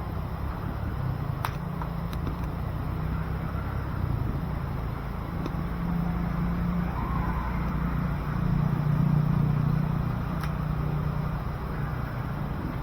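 Outdoor wood-burning stove with its fire going: a steady low rumble that swells briefly near the end, broken by a few sharp crackles.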